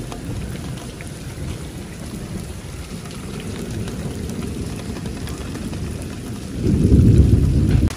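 Heavy monsoon rain pouring onto a flooded courtyard and roofs: a steady dense hiss and patter. Near the end a louder low rumble swells for about a second.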